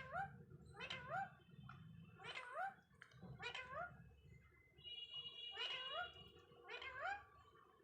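Indian ringneck parakeet giving a series of short, rising calls, about one a second, with a steady high tone held for about a second midway.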